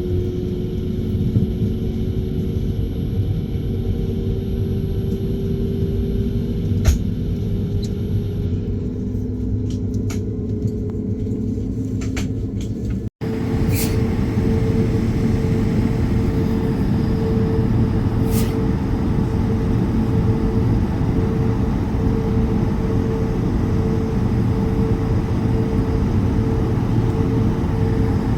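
Cabin noise of an Airbus A220 taxiing: the steady hum and rumble of its Pratt & Whitney geared turbofan engines, with a slowly rising engine tone and a few sharp clicks of the cabin. A brief break about thirteen seconds in, after which the rumble is a little louder with a steady higher engine tone.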